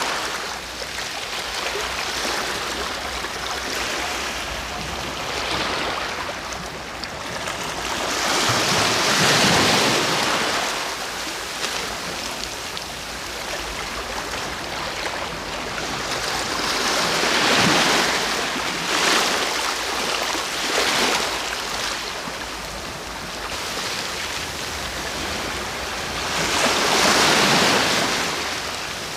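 Sea waves breaking on the shore: a steady wash of surf, with a louder wave surging in and hissing out about every eight seconds.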